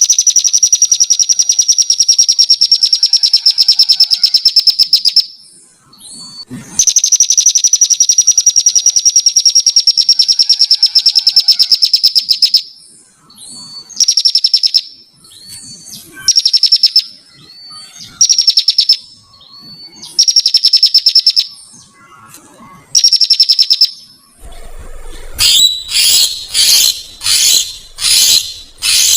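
Small songbird singing: two long, very rapid high trills of about five seconds each, then a string of shorter one-second trills, each ending in a short upturned note. Near the end the song changes to a run of loud, sharp repeated notes, about one a second, over a faint low hum.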